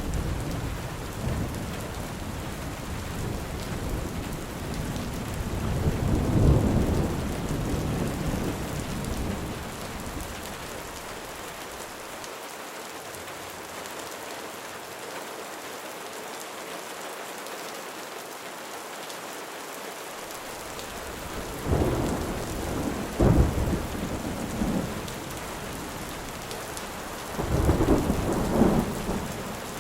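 Steady rain falling, with thunder rolling over it. A long rumble builds and peaks about six seconds in, then fades. Louder thunder claps come about 22 seconds in and again near the end.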